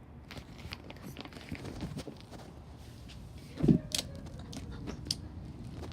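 Slime being handled and squished by hand, with small clicks and crackles and one louder thump a little past halfway.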